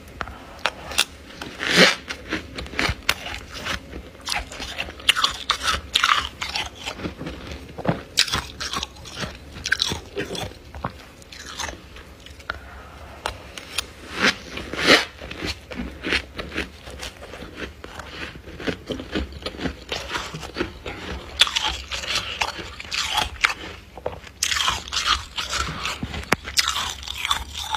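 Close-up chewing of freezer frost: crisp, irregular crunches one after another as mouthfuls of frost are bitten and chewed.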